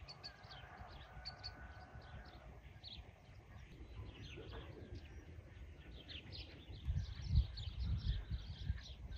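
Small birds chirping and twittering in quick, repeated short notes. A low rumbling noise underneath grows louder about seven seconds in.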